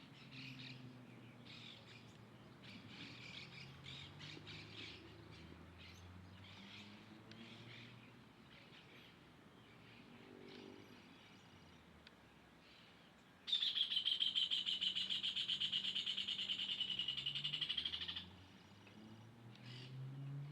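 Wild birds chirping faintly, then about two-thirds of the way through one bird gives a loud, fast, even trill lasting about five seconds before stopping abruptly.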